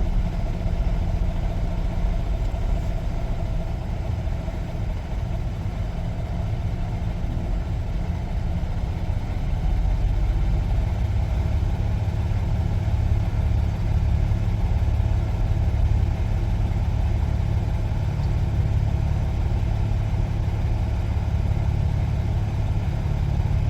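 Semi-truck's diesel engine running at low speed while the truck rolls slowly, a steady low rumble that gets somewhat louder about ten seconds in.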